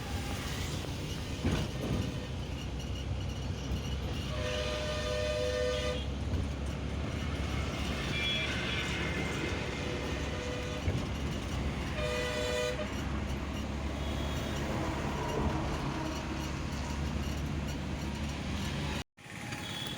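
Steady engine and road rumble of a small goods truck on the move, with a two-tone vehicle horn sounding twice: for about a second and a half some four seconds in, and briefly again about twelve seconds in. The sound cuts out for a moment near the end.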